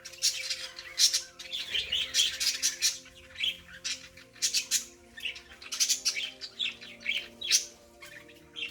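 Pet budgerigars chirping and chattering: rapid runs of short, high chirps and squawks, one after another.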